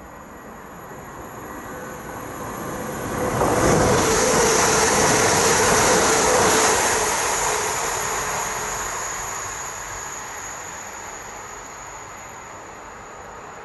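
Class 333 electric multiple unit passing at speed. The rumble and rail noise build, are loudest from about four to seven seconds in, then fade steadily as the train draws away, with a high steady whine carried through the pass.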